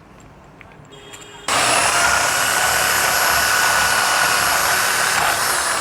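Electric power grinder starting abruptly about a second and a half in and running with a steady high whine while it grinds down built-up weld inside a car's inner CV joint housing. It eases off near the end.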